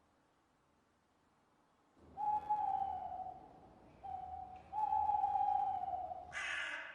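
Owl hooting: after about two seconds of quiet, a long hoot, a short one, then a long hoot that falls slightly in pitch. Harsh crow caws start just before the end.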